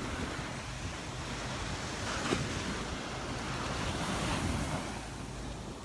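Surf washing onto the shore, swelling a little about two seconds in and again near four seconds, with wind rumbling on the microphone.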